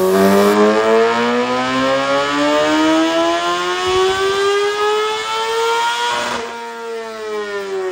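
Superbike engine running on a dynamometer, revving up in one long pull with the pitch rising steadily for about six seconds. It dips briefly about six seconds in, then eases off and falls away near the end.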